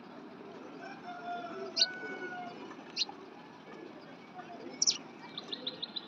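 Small birds chirping: a few short, sharp high chirps spaced a second or more apart, then a quick run of rapid chirps near the end, over faint steady background noise.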